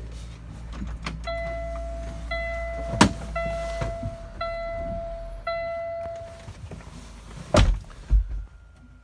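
Cab warning chime in a 2013 Kenworth T680 sounding five times, each tone lasting about a second, over a low steady rumble, with a couple of knocks. Near the end come two heavy thumps, the loudest sounds, after which the rumble drops away.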